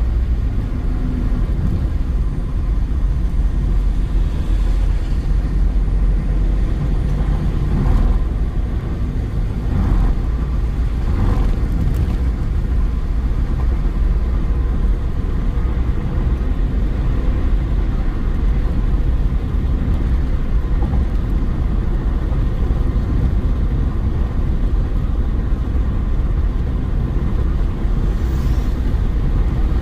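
Car driving steadily: a constant low rumble of road and engine noise, with a few faint brief knocks between about 8 and 12 seconds in.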